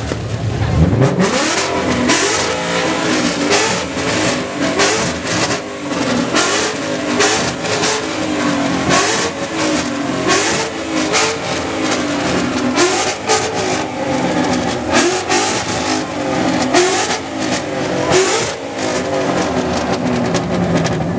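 A car engine revved over and over in quick blips, with a dense string of sharp exhaust pops and bangs between the revs, typical of a pops-and-flames tune.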